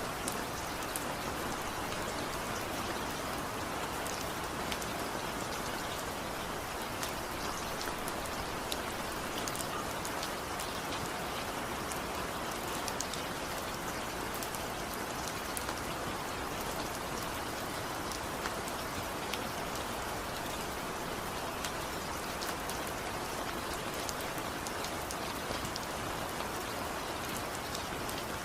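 Steady rain falling, with many separate drops ticking through the patter.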